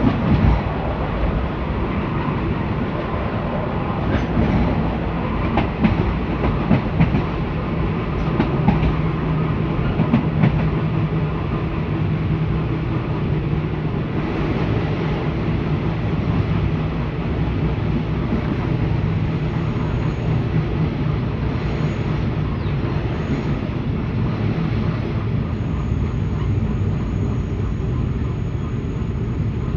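A passenger coach rolling along the track at speed: a steady rumble of wheels on rail, with clacks and knocks over rail joints, thickest in the first ten seconds, then settling into a smoother run.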